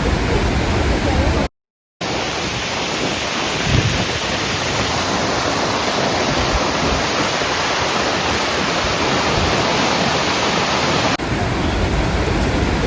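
Skógafoss waterfall's heavy falling water, a loud, steady rushing noise. It drops out for half a second about a second and a half in, then comes back brighter and hissier until a cut near the end.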